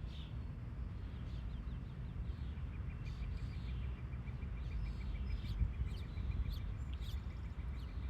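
Small birds chirping in short, scattered calls over a steady low rumble. From about two and a half seconds in, a quick, even series of high peeps repeats at roughly three to four a second.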